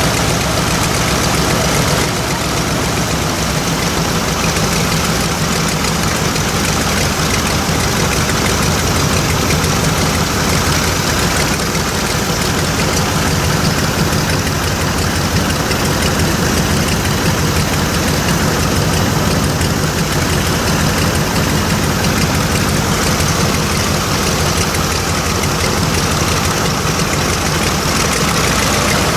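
Nakajima Sakae 14-cylinder radial engine of an A6M5 Zero fighter running steadily at idle.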